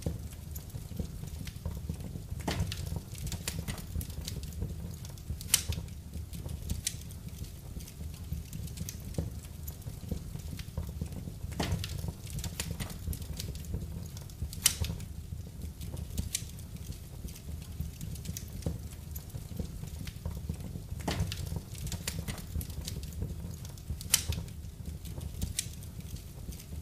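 Wood fire burning in a fireplace, crackling with irregular sharp pops, a few louder than the rest, over a low steady rumble.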